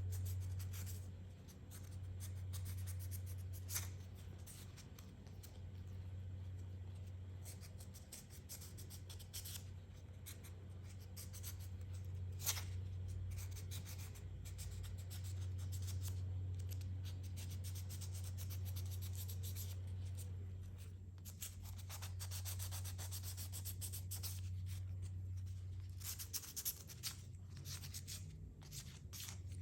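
Hand sanding with fine sandpaper on a small metal horn contact part: irregular scratchy rubbing strokes, cleaning the contact surface so the horn can make connection, with a couple of light clicks. A steady low hum runs underneath.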